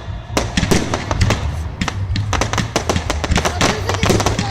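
Fireworks going off in quick succession: many sharp bangs and crackles, several a second, over a steady low rumble.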